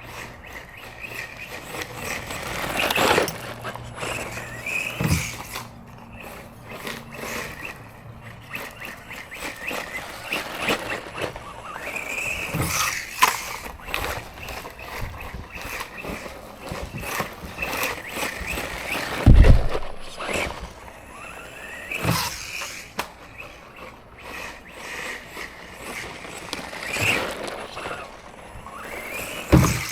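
Brushless electric motor of an Arrma Granite Grom RC truck whining up and down in pitch as it speeds up and slows, with tyres scraping over the ground and repeated sharp knocks. The loudest is a hard thump a little past halfway.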